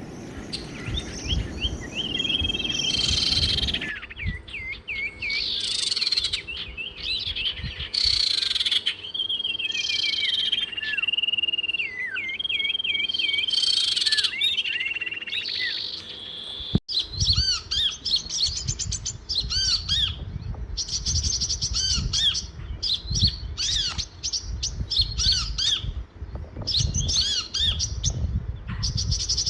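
Songbirds singing and calling, with held whistled notes and short swooping phrases. About halfway through it changes abruptly to dense, rapid chirping from several birds.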